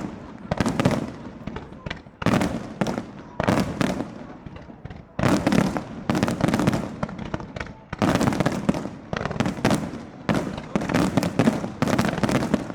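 Fireworks display: volleys of shells bursting in quick succession with crackling, coming in waves every two to three seconds.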